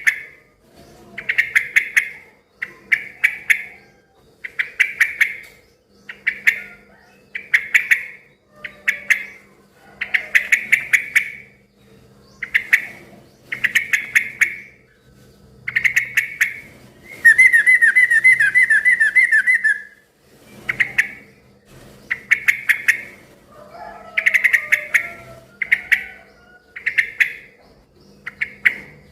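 Yellow-vented bulbul (trucukan) calling over and over: short bubbly phrases about every second and a half, broken about two-thirds of the way in by a rapid chattering trill of about three seconds.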